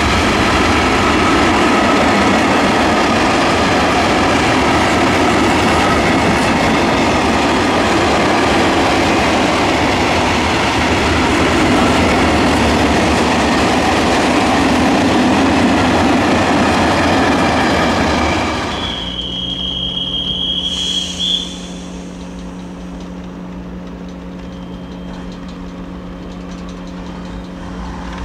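Freight train of open wagons rolling past at speed: dense wheel and rail noise with a faint ringing squeal from the wheels. About two-thirds of the way through, the last wagon passes and the noise drops off quickly, followed by a high-pitched squeal lasting about two seconds, then a low steady hum.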